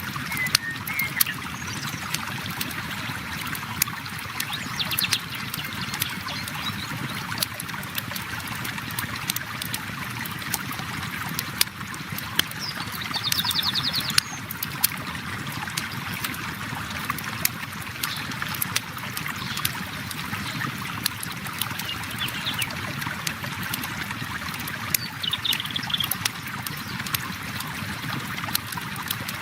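River water flowing steadily, with a wood campfire crackling: frequent sharp pops over the even rush of water. A few short high chirps come about five seconds in, around thirteen seconds and near the end.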